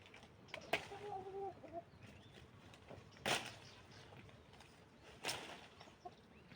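A chicken gives one drawn-out call lasting about a second, near the start. Faint sharp clicks or rustles follow a few times.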